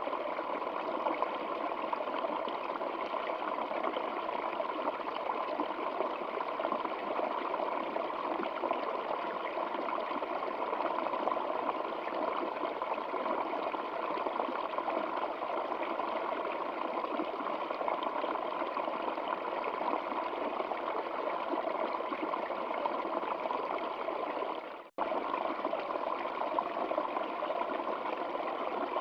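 Stream water flowing steadily in an even, unbroken rush. About 25 seconds in it fades briefly to silence and cuts straight back in, the seam of a looped recording.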